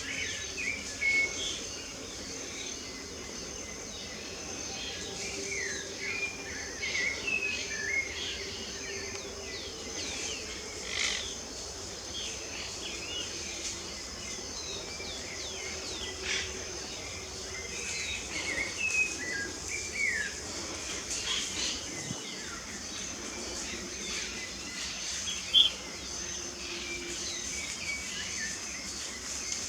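Several birds chirping and singing in many short calls over a steady, high insect drone, with one brief louder click near the end.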